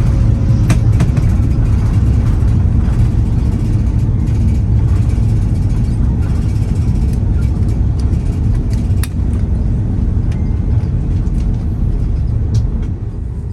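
Loud, steady low rumble inside the cabin of an Airbus A330-300 on the runway after touchdown, easing off slightly near the end, with scattered clicks and rattles from the cabin.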